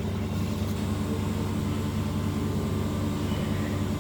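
Steady electric motor hum of a TV panel bonding machine's vacuum pump running.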